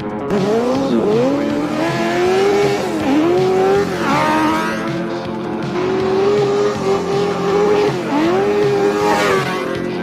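Motocross bike engine accelerating hard, its pitch climbing and then dropping sharply at each upshift, about three times. Background music plays underneath.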